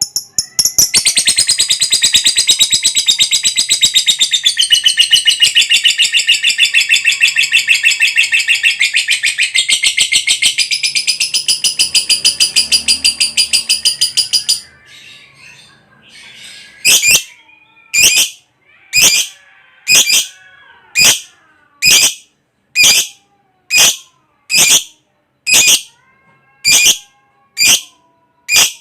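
Lovebird giving its long 'ngekek' chatter: a loud, rapid, unbroken trill of shrill chirps lasting about fourteen seconds. After a short pause come single sharp shrieks, about one a second.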